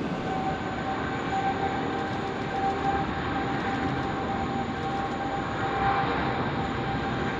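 Jet airliner engines running with a loud, steady roar and a steady whine riding over it.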